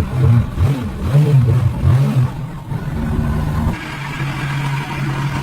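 Engine revving in short blips, then settling into a steady run about four seconds in.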